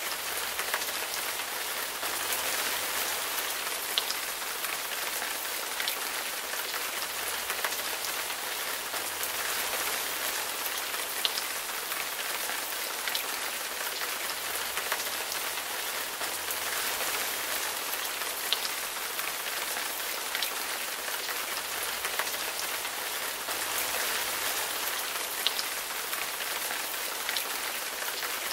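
Steady rain falling, an even hiss with scattered louder single drops heard as sharp ticks.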